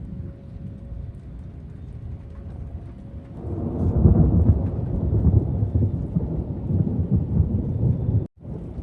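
Thunder rumbling: a low roll that swells about a third of the way in and keeps rolling until it cuts off abruptly near the end.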